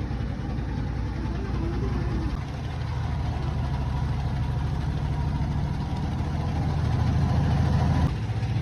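An engine running steadily with a low drone; its tone shifts slightly a couple of times. A faint voice is heard in the first couple of seconds.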